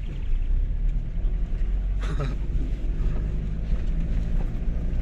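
Two-wheel-drive Toyota HiLux driving on a rough dirt track, its engine and running gear making a steady low rumble, heard from inside the cab.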